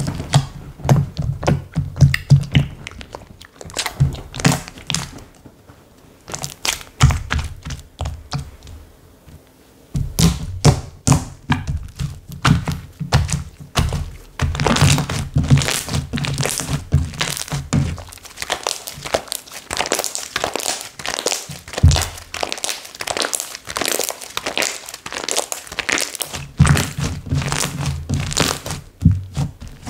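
Hands squishing and poking slime, giving a dense, irregular run of sharp clicks and pops from trapped air. There is a quieter stretch about six to ten seconds in.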